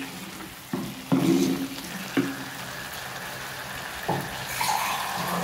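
Chicken and masala sizzling as they sauté in a clay pot, stirred with a wooden spatula that knocks against the pot four times. This is the stage where the chicken is fried down in the spices before water is added.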